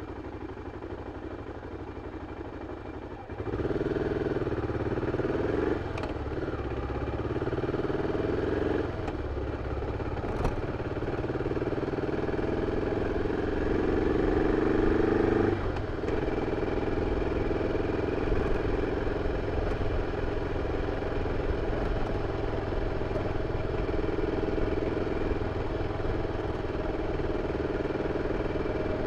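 BMW F 650 CS motorcycle's single-cylinder engine running on the stock exhaust while riding. It gets noticeably louder about three seconds in as the throttle opens, and the engine note shifts several times after that.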